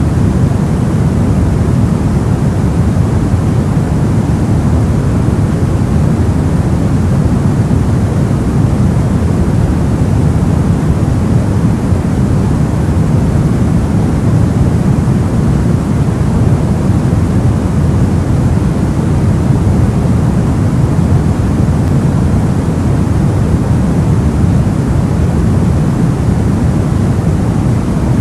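Steady soft white noise for sleep, weighted towards the low end so it sounds like a deep, even hiss, unchanging throughout.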